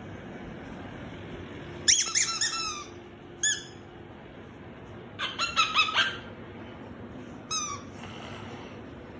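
Squeaky toy piggy being squeezed in quick runs of high squeaks, each one falling in pitch. There is a rapid run about two seconds in, a single squeak, another rapid run about five seconds in, and a short squeak near the end.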